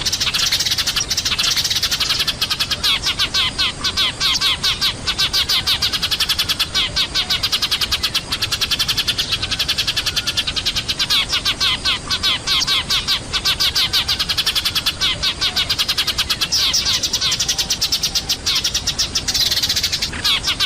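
Eurasian tree sparrows chirping noisily, a dense, unbroken chatter of many short chirps: a sparrow lure call.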